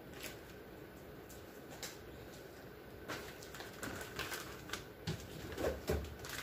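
Light clicks and knocks of containers and fridge parts being handled and set down, with a few duller thumps about five and a half seconds in.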